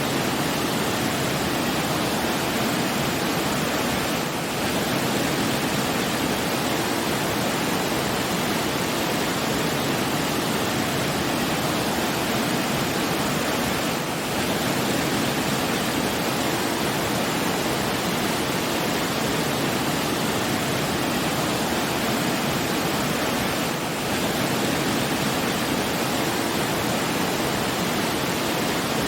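Steady rushing water, an even unbroken wash of sound, with a brief dip in level about every ten seconds.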